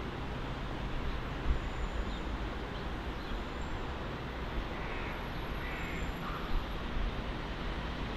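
Steady low rumble and hiss of an ICE 3 high-speed train still far off and approaching, with a few faint bird caws about five to six and a half seconds in.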